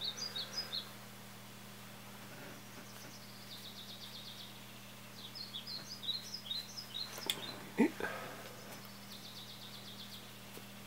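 A small bird chirping in two quick twittering runs of short high notes, about five seconds apart, over a steady low hum.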